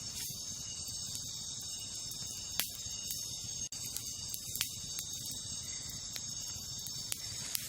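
Wood campfire crackling, with a few sharp pops, about four of them, over a steady high-pitched chorus of night insects.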